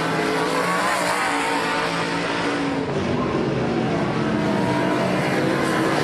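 Race car engine sound effect, several engines running continuously at racing speed.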